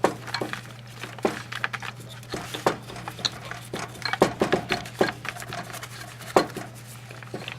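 Irregular light taps and scratches of a toothbrush working hot floor wax into the crevices of a small stone sculpture, over a steady low hum.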